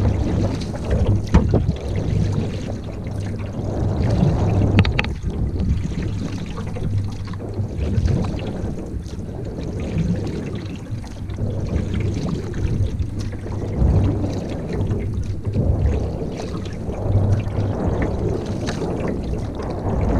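Canoe moving on the water with wind buffeting the microphone: a steady low rumbling noise, broken by a few brief knocks.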